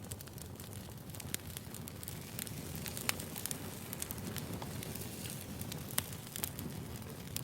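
Wood fire burning: a steady low rumble of flames with frequent sharp crackles and pops of the burning logs, two of them louder, about three and six seconds in.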